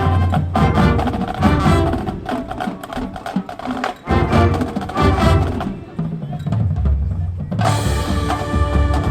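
High school marching band playing its field show: brass and woodwind chords over sharp drumline strokes. Near the end the upper instruments drop out briefly, leaving the low parts, then the full band comes back in on a held chord.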